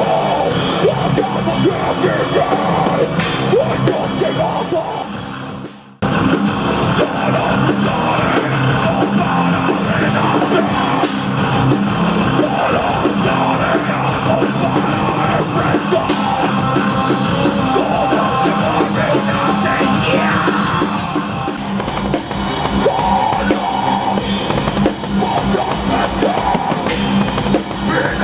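Live rock band playing loud, heavy-metal-style rock with a driving drum kit. About six seconds in the music fades away and then cuts abruptly back in.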